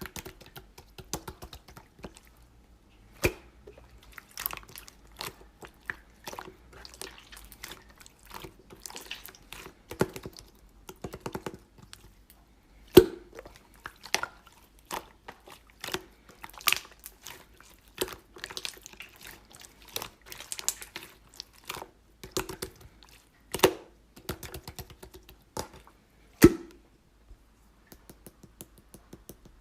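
Slime being played with by hand: an irregular run of wet clicks, pops and squishes, several a second, with a few louder pops.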